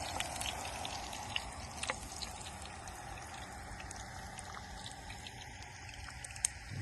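Sausages sizzling in a frying pan. The steady hiss carries scattered small pops and eases off slowly.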